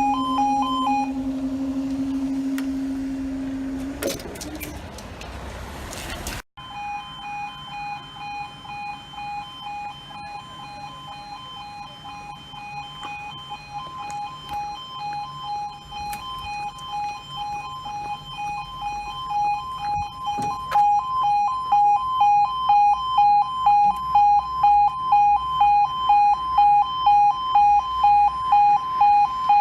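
Level crossing warning alarm sounding a repeating two-tone yodel, alternating high and low at a little over one cycle a second. A steady low drone sounds beneath it and stops about four seconds in; after a sudden cut about six seconds in, the alarm carries on and grows louder about two thirds of the way through.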